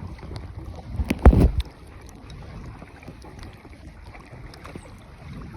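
A paddled rowboat on a river: a steady low noise of water and wind on the microphone with small knocks, and a brief loud burst of noise about a second in.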